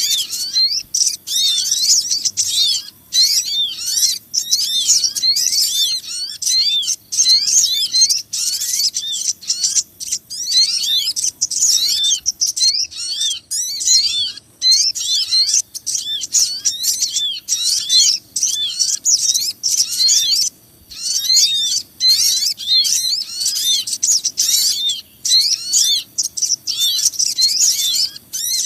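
Bird-lure recording of small birds, the sogon among them: a dense, excited chatter of rapid high chirps repeating almost without pause, with brief gaps now and then. It is the kind of agitated calling played to draw small birds in for trapping.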